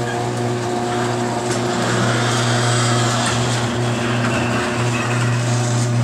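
Electric garage door opener motor running steadily as it moves the door, which has freshly lubricated hinges and rollers, with a few faint clicks from the door.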